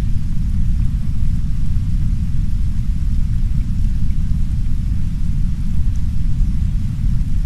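Heavy brown noise, a steady deep rumble, with soft rain hissing faintly over it.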